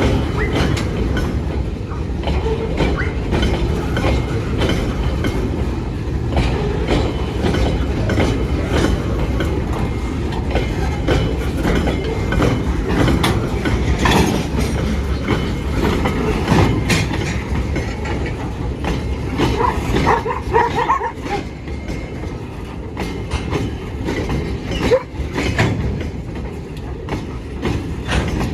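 Loaded freight train rolling past, with a steady rumble and rapid clacking of wheels over rail joints.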